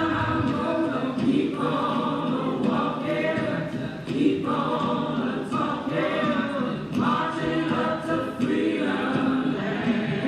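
A choir of voices singing together, in sung phrases of a second or two.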